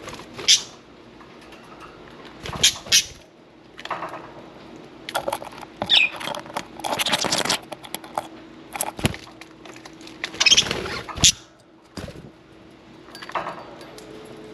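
Budgies splashing in a shallow water bath, in irregular bursts of splashing and pattering, with a short chirp about six seconds in.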